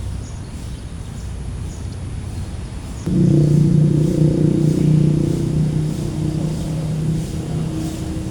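A motor vehicle's engine hum comes in abruptly about three seconds in. It holds steady and low, over a constant background rumble.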